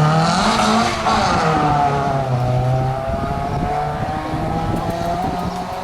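A motor vehicle's engine running, its pitch climbing as it comes in, then easing slightly and holding steady.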